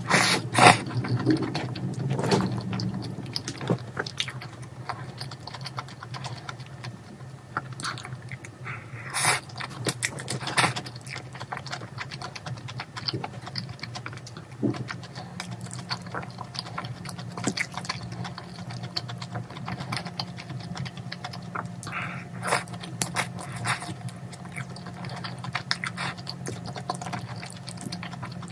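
Close-miked eating: chewing mouthfuls of mala xiang guo and rice, with frequent sharp clicks and taps of wooden chopsticks and mouth sounds, busiest in the first few seconds. A steady low hum runs underneath.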